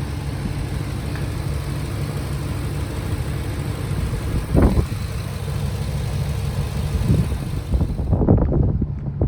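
The Ford 5.4-litre Triton V8 of a box truck idling steadily. A single knock comes about halfway through, and a short run of knocks and clatter near the end.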